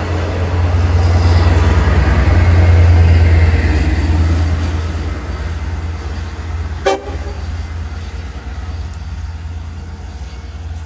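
Long Island Rail Road train passing: a loud low rumble that swells over the first few seconds and then slowly fades, with one short sharp sound about seven seconds in.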